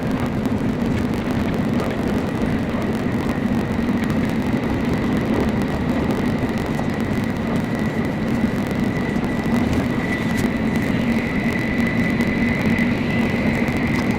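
Steady running noise of a Nozomi Shinkansen bullet train heard from inside the passenger car: a constant low rumble with a thin, steady high whine over it.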